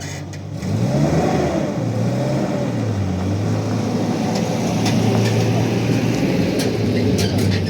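Car engine revving up about half a second in, then running at a steady drone. A few sharp clicks or knocks come near the end.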